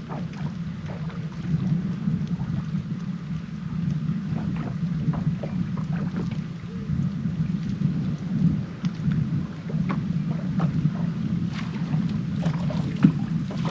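Wind buffeting the microphone, heavily processed to cut it down, leaving a steady low rumble, with scattered small clicks and knocks over it.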